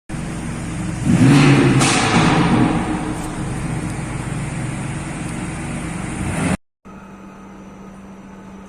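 BMW MotoGP safety car's engine accelerating hard, loudest about a second in and easing off over the next few seconds. The sound cuts off suddenly about six and a half seconds in, and a quieter steady hum follows.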